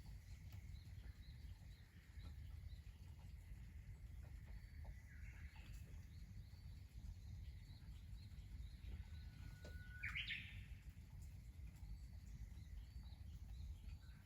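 Faint birds calling with repeated short chirps, one clearer call about ten seconds in, over a low steady rumble of outdoor background noise.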